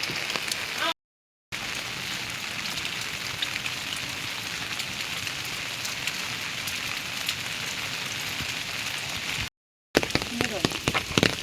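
Heavy rain falling steadily, a dense hiss with many individual drops ticking through it. It cuts out completely for a moment twice, about a second in and near the end, and a few louder sharp drips come in the last second.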